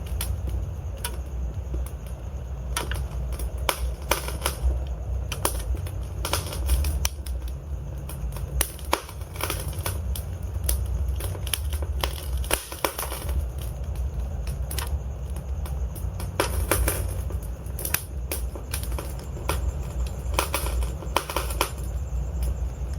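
Wood fire crackling and popping: irregular sharp snaps, some in quick clusters, over a steady low rumble of the flames.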